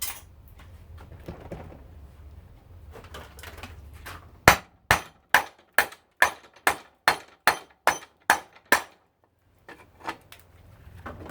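Hammer blows on a garbage disposal unit: about ten sharp strikes at a steady pace of a little over two a second, starting about four seconds in.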